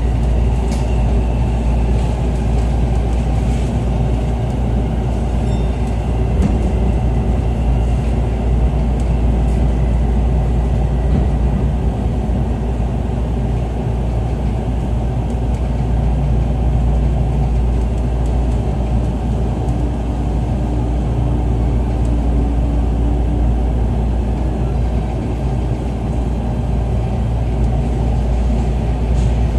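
Running noise inside the cabin of a JR East E233-series electric commuter train: a steady low rumble of wheels on rail, with faint tones that come and go, as the train slows for its stop near the end.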